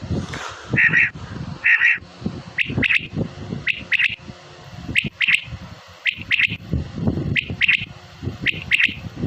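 Black francolin calling: two harsh notes in the first two seconds, then a run of short, sharp paired notes repeated about once a second, over a low rumbling background noise.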